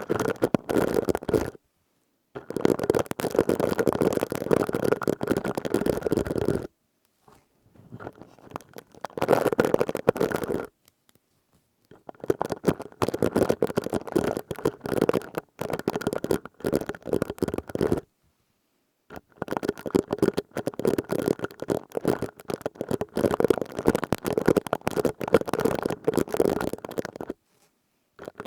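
Plastic scourer rubbed and squeezed close to the microphone, making a dense crackly rustling. It comes in five spells of a few seconds each, with brief silences between them.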